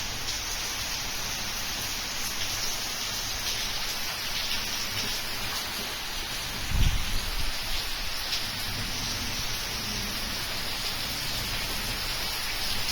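Heavy rain falling steadily, a dense hiss with the patter of individual drops. About seven seconds in, a brief low rumble stands out.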